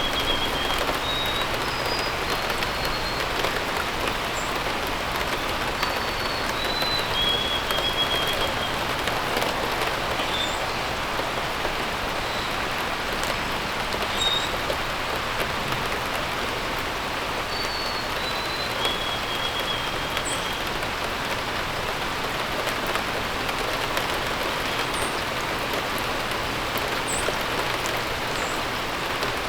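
Steady rain falling, a constant even hiss. A bird sings over it three times, each phrase a few short notes stepping down to a longer held note, with a few brief high chirps in between.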